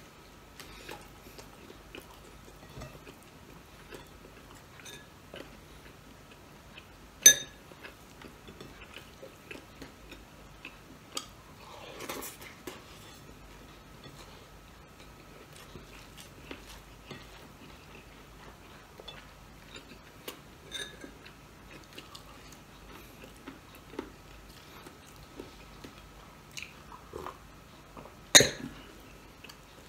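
A man chewing and biting food close to the microphone: small, irregular mouth clicks and smacks over a faint steady hum. Two much louder sharp clicks stand out, one about seven seconds in and one near the end.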